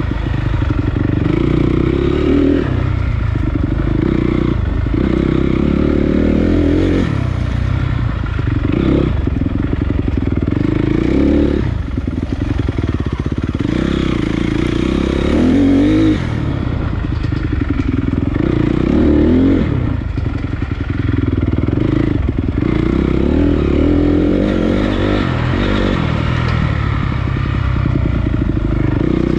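Honda CRF250 dirt bike's single-cylinder four-stroke engine running on a trail ride, its revs rising and falling again and again with throttle and gear changes.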